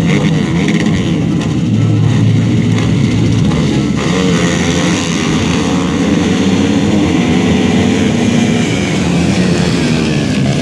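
Several motocross bikes' engines running hard, their pitch rising and falling as they rev through the gears.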